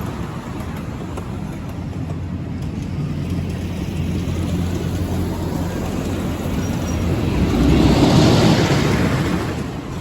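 Amusement-park ride train running along its track: a steady rumble of engine and rolling wheels that swells to its loudest about eight seconds in, then falls away.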